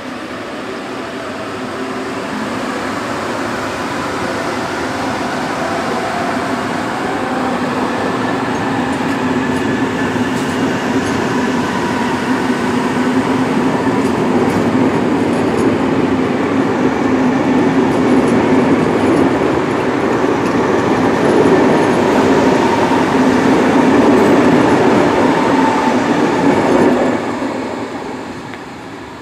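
VR Sm3 Pendolino electric train moving slowly past at close range and picking up speed: a steady hum from its electric drive and wheels on the rails that grows louder, with some rising tones. It falls away quickly near the end as the last car goes by.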